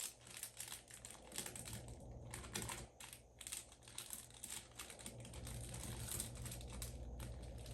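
Faint rustling and quick irregular taps of a paper planner being handled.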